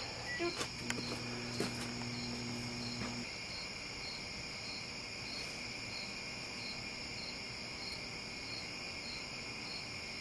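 Crickets chirring steadily at a high pitch, with a regular chirp about three times a second. A low electrical hum comes in about a second in and stops a couple of seconds later.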